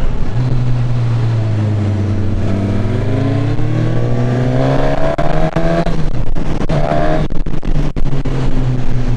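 Suzuki Katana's one-litre inline-four engine under way: the revs climb steadily for several seconds as the bike accelerates, fall about six seconds in, then pick up again, over a constant rush of wind.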